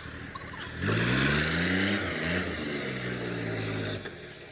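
Tractor engine revving up about a second in, giving a second short rev, then running steadily at raised speed before dropping away near the end.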